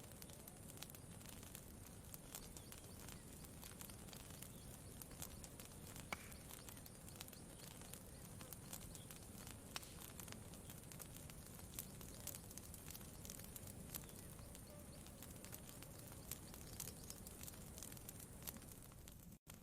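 Faint campfire crackling, with scattered small pops over a steady low hiss. The sound drops out for a moment near the end.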